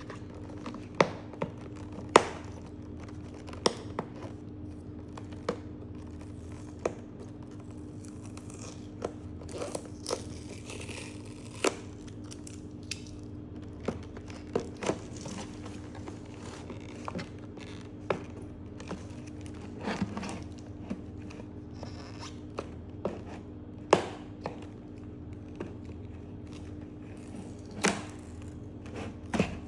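Cardboard and plastic packaging being handled and tape pulled from a box: irregular sharp taps and clicks every second or two, with some crinkling and scraping. A steady low hum runs underneath.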